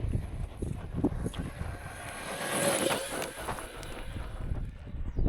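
Electric RC truck on a 3S battery running at full throttle over rough ground, swelling as it passes about two to three seconds in. Wind buffets the microphone throughout.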